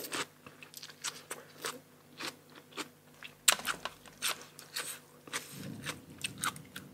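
Close-miked eating: crisp crunching bites and chewing, a few sharp cracks each second.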